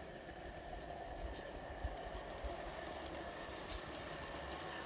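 Wilesco Lucas live-steam model locomotive running round a garden railway with its carriages: a steady, quiet hiss and rumble.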